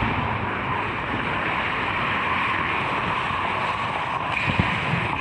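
Steady noise of an ice hockey rink during play, such as skates scraping the ice and arena hum.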